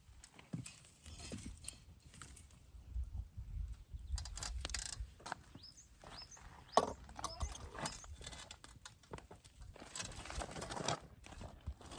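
Scattered knocks, clicks and clinks of objects being handled, with a few short high chirps near the middle.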